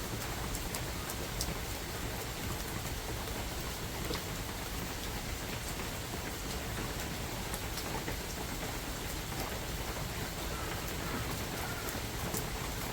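Steady rain falling in a spring forest, a constant hiss with individual raindrops ticking sharply here and there.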